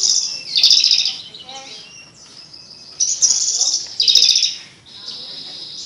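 Horsfield's bush lark (branjangan) singing: a run of loud, rapid, high trilled phrases, four bursts in all, followed near the end by a thinner, steadier high note.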